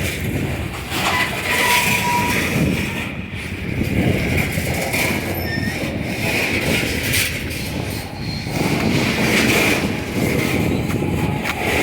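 Coal train's freight cars rolling past, a steady rumble and clatter of steel wheels on rail with a high wheel squeal that swells and fades every second or two.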